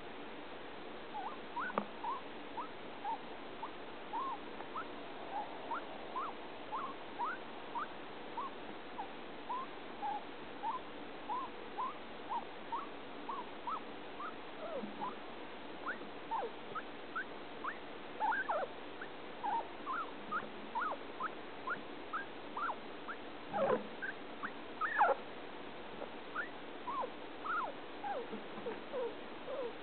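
Guinea pig making a long run of short, high squeaks, about two a second, with a few louder ones past the middle; the owner cannot say what the sounds mean.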